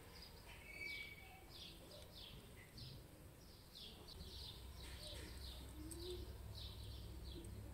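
Small birds chirping faintly, two or three short falling chirps a second. A low hum comes in about four seconds in.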